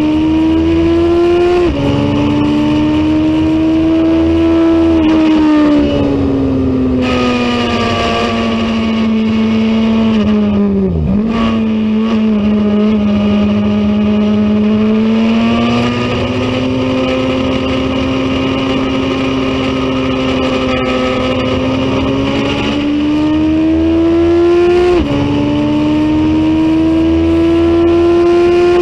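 Racing motorcycle engine running hard under load, its pitch climbing and then dropping sharply at an upshift about two seconds in and again near the 25-second mark. Around eleven seconds in the revs fall and dip briefly as it slows, then climb slowly again.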